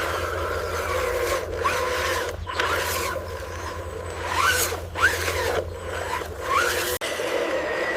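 Small electric motors of radio-controlled construction vehicles whining, rising and falling in pitch several times, over scraping and rubbing of material being moved.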